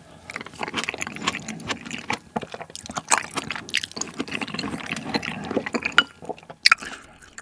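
Close-miked wet chewing of a mouthful of tomato pork curry and rice: squelchy mouth sounds with many small, irregular clicks. Near the end a spoon scoops from the curry bowl.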